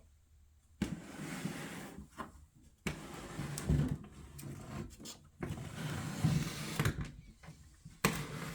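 A wooden dollhouse being turned around on a table, scraping and bumping across the surface in four separate shoves, each starting suddenly and lasting a second or two.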